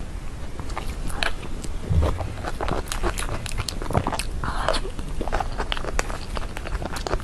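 Close-miked eating of a peach bobo bun: bites and chewing with many small mouth clicks, and a low thump about two seconds in.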